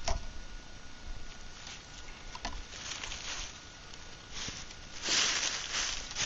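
Footsteps and rustling on the ground with a few small knocks, and a louder scuffing rustle about five seconds in.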